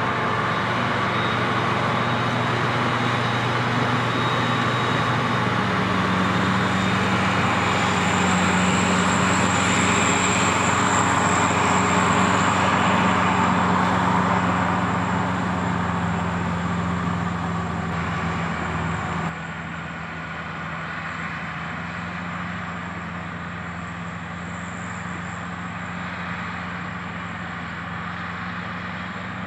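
Heavy diesel farm vehicles running steadily during the corn silage harvest, with a deep engine hum and plenty of mechanical noise. The engine note steps up and grows louder about six seconds in, then the sound drops abruptly quieter about two-thirds of the way through.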